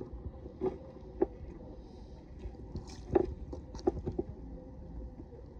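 Paddling a stand-up paddleboard: a handful of short knocks and light water sounds from the paddle and board, over a low rumbling background.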